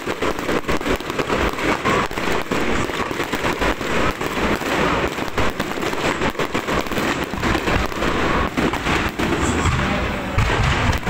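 Electronic firecrackers crackling in a rapid, continuous string of sharp pops.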